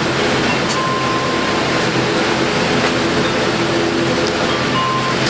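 Steady cabin drone of an ATR 72 with its twin turboprop engines running, an even rushing noise with a low steady hum. Two brief faint high tones sound about a second in and near the end.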